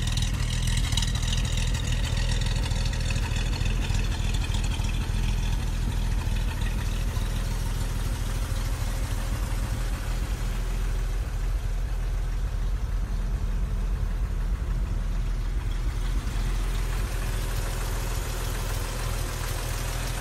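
Bentley MkVI Special's engine idling steadily through its standard exhaust system.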